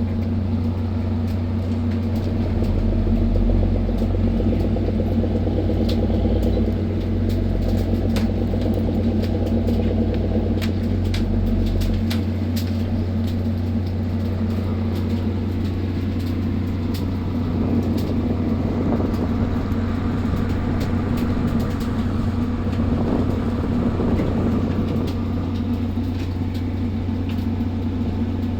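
Ship's engine running with a steady low drone, with light clicks and rattles scattered over it.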